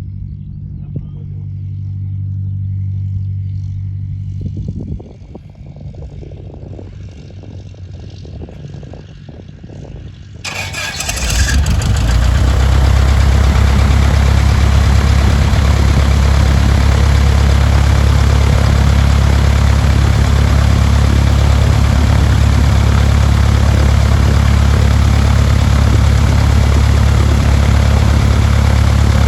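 A low engine hum, then from about ten seconds in a loud, steady propeller aircraft engine running close by.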